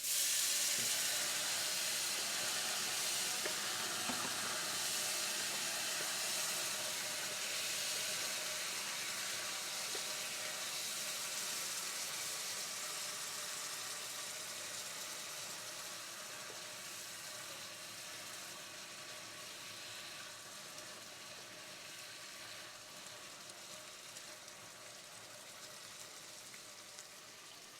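Chickpea and potato curry in a hot pot sizzling and hissing as more water hits it, the sizzle dying away gradually as the pot settles.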